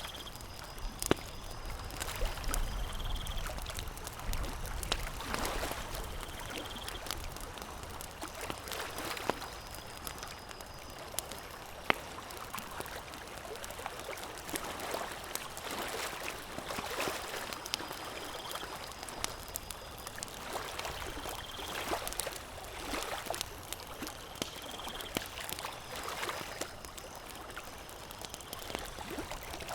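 Campfire crackling, with scattered sharp pops, two of them louder about a second in and near the middle, over water washing and lapping that swells every few seconds.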